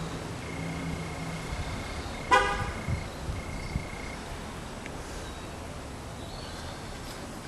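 A single short car horn toot about two seconds in, over a low background hum and a thin, high, steady tone that comes and goes.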